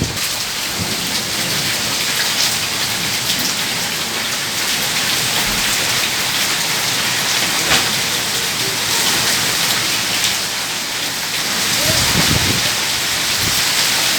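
Heavy rain pouring down steadily in a monsoon-like downpour, its hiss even throughout.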